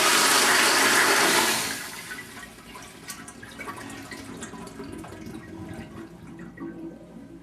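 Toilet flushing: a loud rush of water that dies away about two seconds in, followed by fainter trickling.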